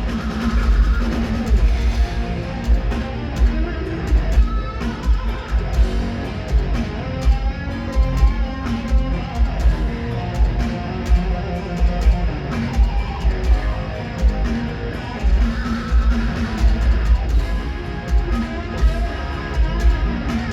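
Heavy metal band playing live: distorted electric guitar over bass and a drum kit with steady kick-drum thumps.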